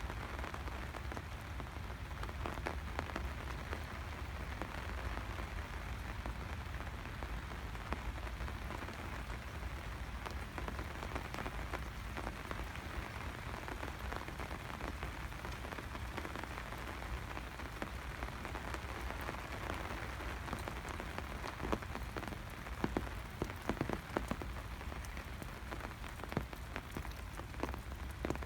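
Steady rain falling, with many individual drops ticking sharply on top of the even patter; the drop hits come thicker and louder about three quarters of the way through.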